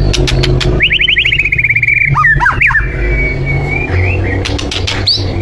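Bornean white-rumped shama singing: a fast trill of short rising notes, then swooping whistles and one held whistle, with sharp clicks near the start and again near the end. A steady low hum runs underneath.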